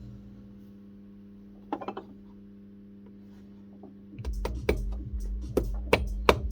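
Hammer tapping shoe nails through a leather sole: a brief clatter about two seconds in, then from about four seconds in a quick run of sharp taps, coming harder toward the end.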